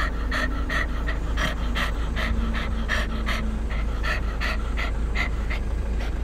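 Dog panting rapidly in quick, even breaths, about two to three a second, over a steady low rumble.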